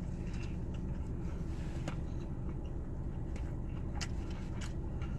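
Chewing a bite of a crispy chicken sandwich, with a few faint crunchy clicks, over a steady low rumble.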